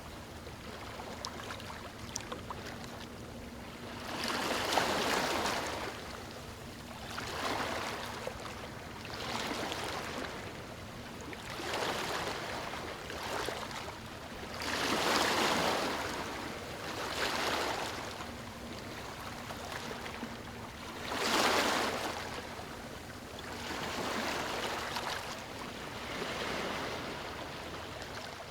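Water splashing and lapping in repeated surges, swelling louder every two to three seconds over a steady rush.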